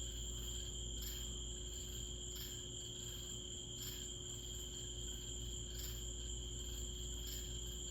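Night insects calling: a steady, unbroken high trill, with a second, softer call pulsing about once every 0.7 seconds, over a low steady hum. No thunder is heard.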